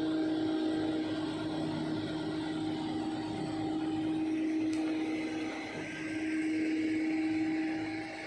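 Kobelco SK200 excavator running under load with a steady high whine. The whine dips briefly about six seconds in, then eases off near the end.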